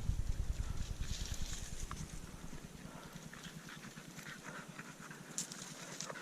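Low wind rumble on the microphone that fades away over the first couple of seconds, leaving faint rustling and a few light ticks of movement.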